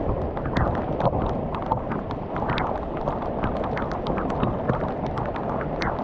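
Heavy thunderstorm rain falling steadily, with many sharp drops ticking close by, several a second, over a constant low rush.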